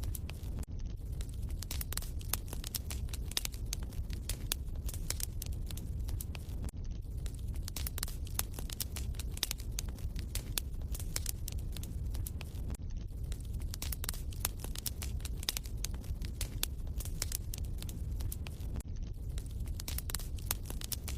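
Wood fire crackling in a fireplace: dense, irregular pops and snaps over a steady low rumble. It is a short recording looped about every six seconds.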